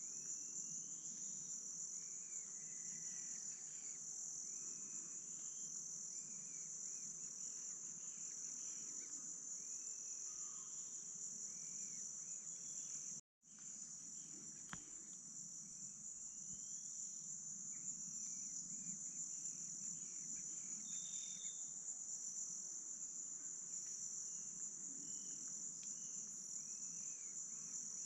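Rainforest insect chorus: a steady, high-pitched drone, with faint short rising bird whistles scattered through it. The sound cuts out for a moment about halfway through.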